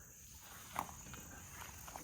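Faint, steady chirring of crickets, with one light tap a little under a second in.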